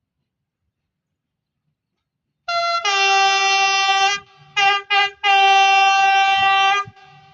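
Train horn sounding a chord of several notes: a long blast about two and a half seconds in, two short toots, then another long blast that stops near the end.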